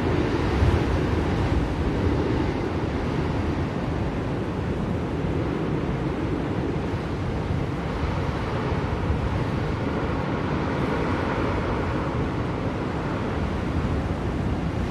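Blizzard wind blowing steadily, a dense rushing noise heaviest in the low range, swelling slightly about a second in.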